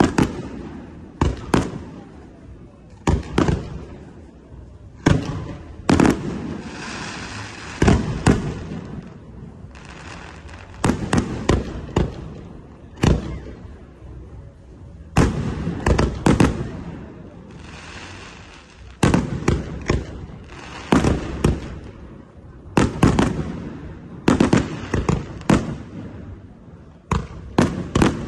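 Aerial fireworks show: shells bursting one after another, every second or two, often in quick clusters of several bangs, with crackling and fizzing trails between some bursts.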